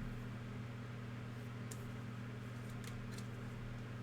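Steady low electrical hum, with a few faint soft ticks of trading cards being flipped through by hand, around two and three seconds in.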